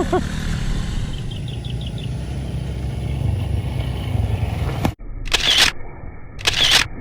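Small off-road motorcycle engine idling with a steady low rumble. About five seconds in, the sound cuts abruptly to short, loud bursts.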